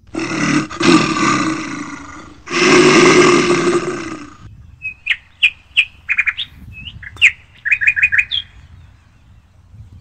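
Two long, loud, low calls in the first half, then birds chirping with short, sharp notes, some in quick runs of four or five.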